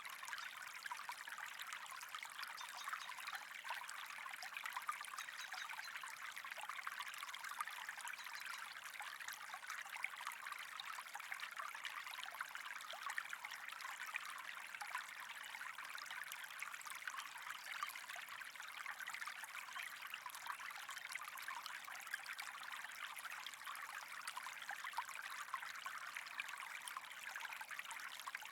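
Steady trickling, flowing water with a fine crackle, unchanging throughout.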